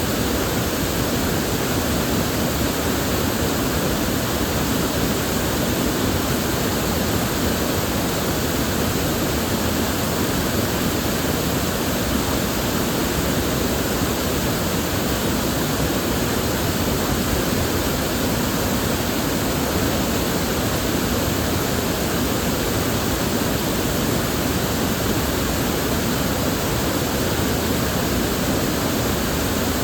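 River water flowing over rocks in a steady, even rush with no pauses or changes.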